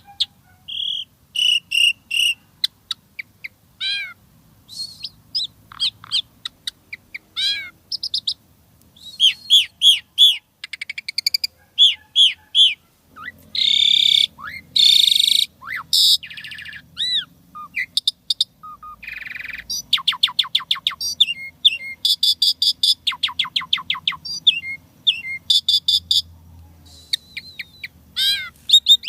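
Asian pied starling (jalak suren) singing a long, varied song full of mimicked notes. It mixes clear whistles and glides, rapid runs of short repeated notes, and a few harsh rasping calls.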